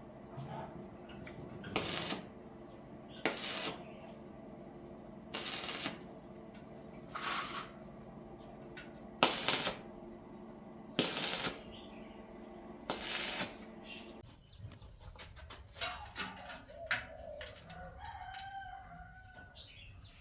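About seven short bursts of hiss, roughly one every two seconds, over a steady machine hum that stops about fourteen seconds in. Then a rooster crows faintly in the background.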